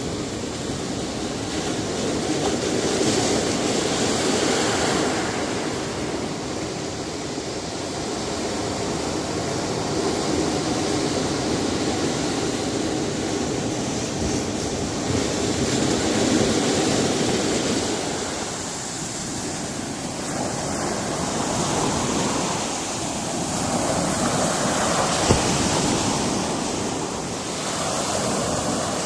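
Sea surf washing against a rocky shore, a continuous rush of water that swells and eases as successive waves come in.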